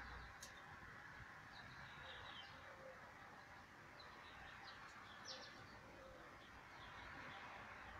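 Faint, scattered bird chirps over quiet outdoor background noise, with one short click soon after the start.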